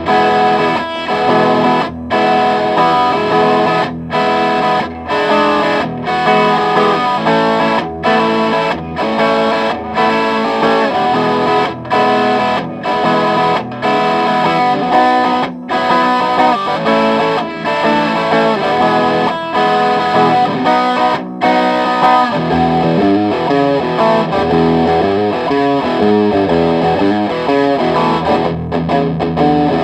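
Electric guitar played through an overdrive/distortion pedal: a riff of picked notes and chords in phrases, with brief breaks every second or two.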